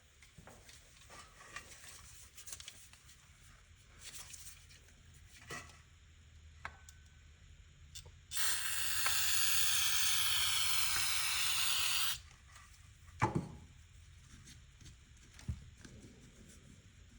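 Steady hiss of a pressurised spray, about four seconds long, cleaning carburetor parts; it starts about eight seconds in and cuts off sharply. Small clicks and knocks of parts being handled come before and after it, with a louder knock about a second after the hiss stops.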